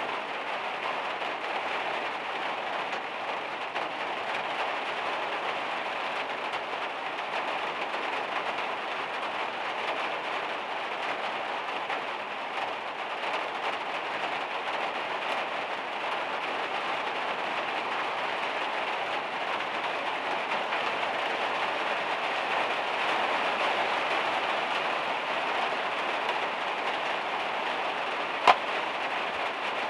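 Heavy rain falling on a van's metal roof, a steady even hiss. A single sharp tap near the end.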